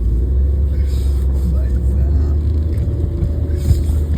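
Car driving, heard from inside the cabin: a steady low engine and tyre rumble with a faint steady hum above it.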